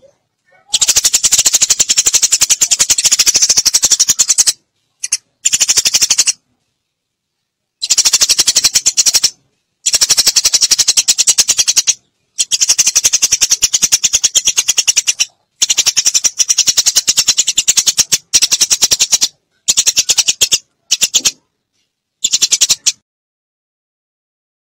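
Eurasian tree sparrow lure call: fast, high-pitched chattering trains of sharp chirps, in bursts of one to four seconds cut off abruptly by silent gaps, as in an edited looping lure recording.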